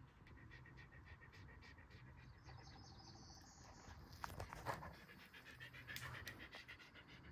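Faint, rapid panting of a dog, in quick even breaths, with a few sharp clicks about halfway through.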